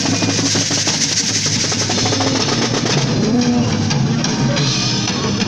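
Live punk rock band playing, with the drum kit driving a fast, busy beat under the band.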